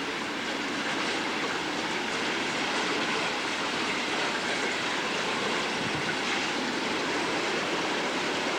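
Hurricane floodwater rushing steadily out of a flooded motel room, a constant hiss with no breaks.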